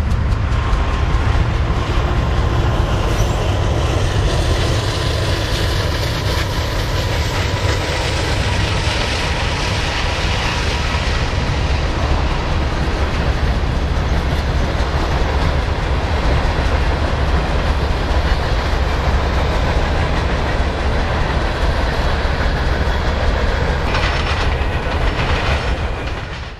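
Steady rumble of a train running on the rails, heard beside a line of idling GE ES44AC diesel locomotives; it fades out at the very end.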